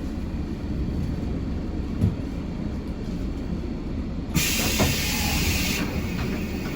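Rumble of a train carriage running on the rails, with a single knock about two seconds in. About four seconds in, a loud hiss of air starts suddenly, stays strong for a second and a half, then carries on more faintly.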